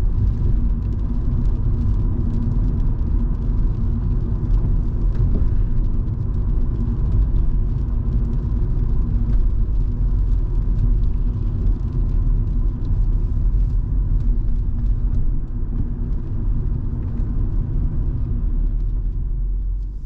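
Volvo V70 2.5T driving, heard from inside the cabin: a steady low rumble of engine and road noise, with faint scattered ticks over it that thin out near the end.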